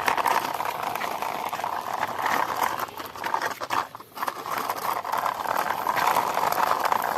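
Toy steam engine being pushed by hand along a wall, its wheels rattling and scraping in a dense run of small clicks, with a brief pause about four seconds in.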